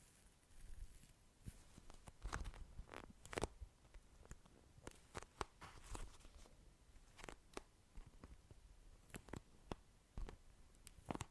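ASMR mouth sounds close to the microphone: soft, wet clicks and smacks coming one at a time at irregular intervals.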